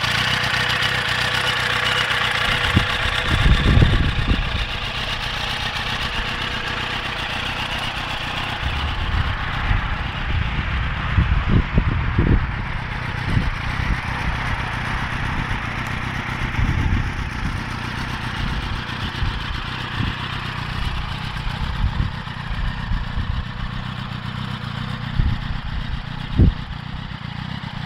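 Yamaha sportbike's engine idling steadily, with irregular low buffeting of wind on the microphone.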